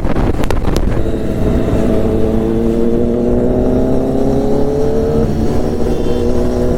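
Motorcycle engine accelerating, its pitch climbing steadily for a few seconds, then dropping about five seconds in as it shifts up a gear.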